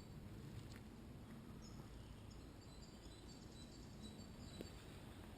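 Near silence: faint woodland ambience with a low rumble and a few faint, high bird calls about two to three seconds in.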